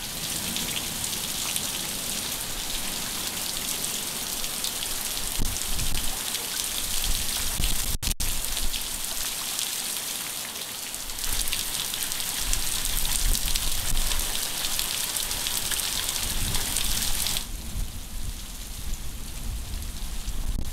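Heavy rain pouring down, a steady dense hiss. The hiss eases a little near the end.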